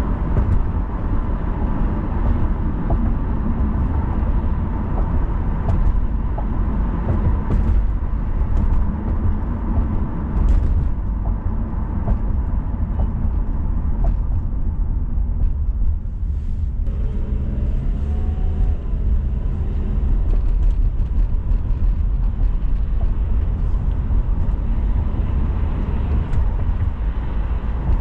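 A car driving on city streets: steady low road and tyre rumble with engine hum, and a few small ticks and knocks.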